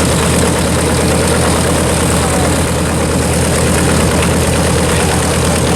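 North American B-25 Mitchell's two Wright R-2600 radial engines idling just after start-up, a loud, steady drone.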